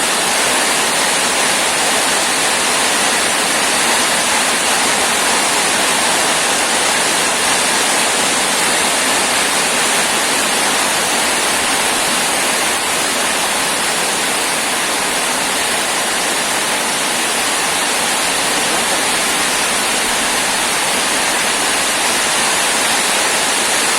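Heavy rain falling steadily, a dense, even hiss with no pauses.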